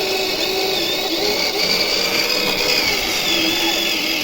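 Small electric motor and gear drive of an RC crawler whining steadily as it pushes through snow, its pitch wavering a little with the load.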